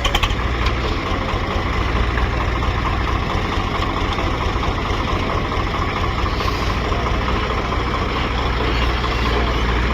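Swaraj 855 tractor's diesel engine running steadily, with a heavy low throb and a few clicks at the very start.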